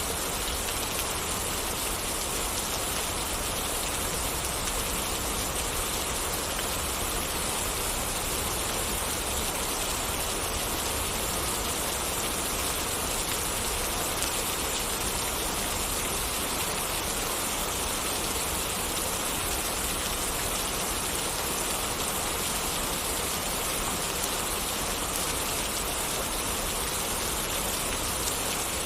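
Steady rain falling, an even hiss of drops on surfaces that holds the same level throughout.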